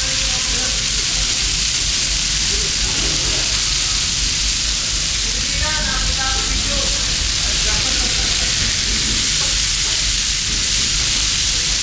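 Fillets frying in oil on a hot flat-top griddle: a steady, loud sizzle.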